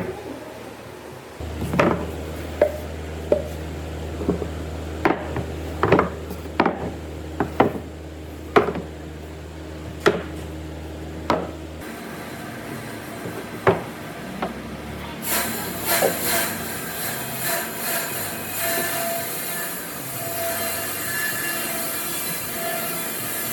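Wood being struck in a workshop: a string of irregular sharp knocks over a low steady hum. About two-thirds of the way through, the knocks give way to a denser steady sound with many held tones.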